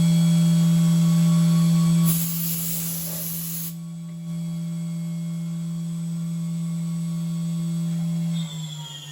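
SYIL X7 CNC mill's spindle running at a steady speed, with a burst of hiss about two seconds in lasting a second and a half. Near the end the spindle spins down, its whine falling in pitch as it slows.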